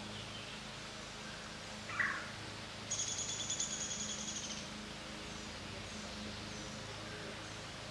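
Wild birds calling: a short, loud call sweeping downward about two seconds in, then a rapid high trill that fades out over about a second and a half, over a steady low hum.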